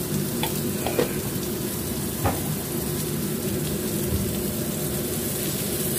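Silken tofu slices coated in cornstarch sizzling gently in a little oil in a stainless wok, with a few faint clicks in the first half. A steady low hum runs underneath.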